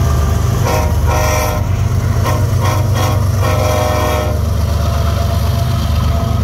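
Freight train with diesel locomotives rumbling past at close range, while a locomotive air horn sounds several blasts, the last about a second long, ending about four seconds in.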